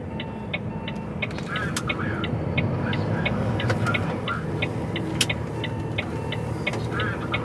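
Heavy goods vehicle's diesel engine running, heard from inside the cab, with the indicator relay ticking steadily about three times a second.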